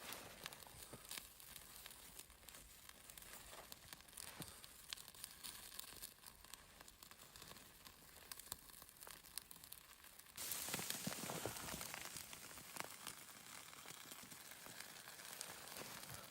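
Faint crackling and rustling, full of small irregular clicks. About ten seconds in, a louder steady hiss starts suddenly and carries on under the crackles.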